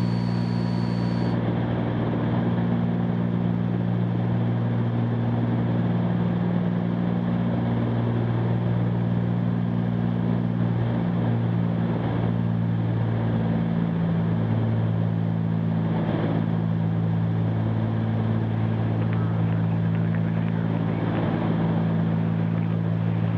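Cabin drone of a Cessna 310Q's two six-cylinder Continental piston engines and propellers in flight, a steady low hum with slight slow swells.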